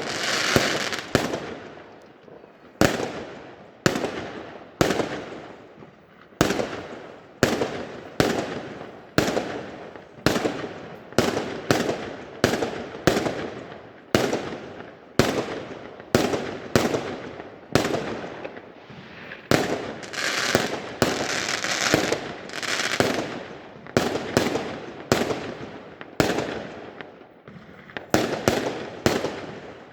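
Fireworks going off in quick succession, a sharp bang roughly every second, sometimes two close together, each trailing off before the next.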